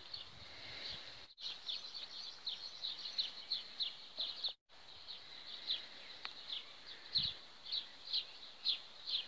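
A bird chirping over and over, faint short chirps that each fall in pitch, two or three a second, cut by two brief dropouts. A soft low thump about seven seconds in.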